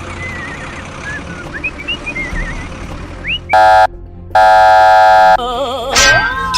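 Bird-like chirps over a steady hiss, then a vehicle horn honks twice, a short blast and then a longer one of about a second, both very loud. A wavering tone and a quick rising sweep follow near the end.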